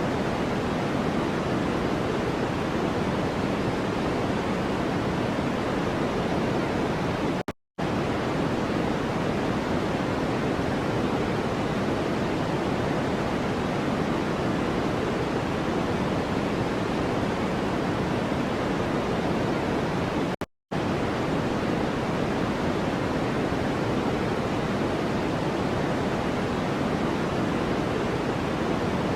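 A steady, deep rushing noise track of the kind played as white noise, fuller in the low-middle range than a bright hiss. It cuts out to silence for a split second twice, about seven and twenty seconds in.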